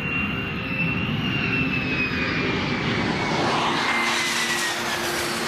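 Jet fighter engine running, a high whine slowly falling in pitch over a rush of jet noise that grows brighter about three to five seconds in.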